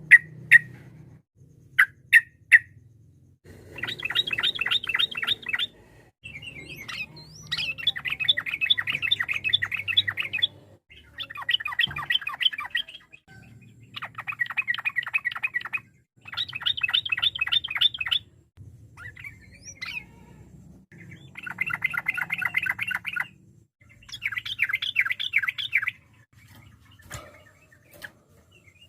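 Yellow-vented bulbul (trucukan) singing in its rapid rolling 'ropel' style: a few single sharp notes, then repeated bursts of fast chattering notes about two to three seconds long with short pauses between.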